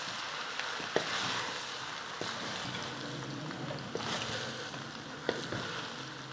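Macaroni, chicken and vegetables sizzling in a steel wok as a wooden spatula stirs them, with a steady frying hiss and a few light knocks and scrapes of the spatula on the pan.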